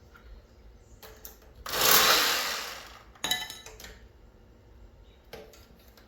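Metal work on a mini-split air conditioner's copper tubing. A loud rushing noise comes on abruptly and fades away over about a second, then a sharp metallic clank rings, with a few lighter clicks around them.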